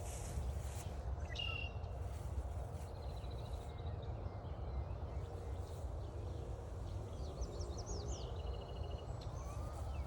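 Several wild birds calling and singing in woodland: short chirps, a quick trill, and a run of fast falling notes near the end, over a steady low rumble. A faint, slowly rising tone starts near the end.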